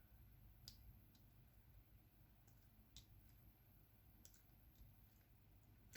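Scattered faint clicks of a diamond painting pen picking up and pressing resin drills onto the sticky canvas, over near silence.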